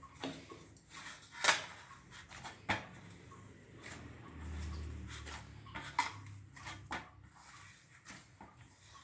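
Kitchen utensils clinking and knocking on a metal plate while chhana dough is mixed: a handful of sharp strikes, the loudest about a second and a half in, with a brief low rumble midway.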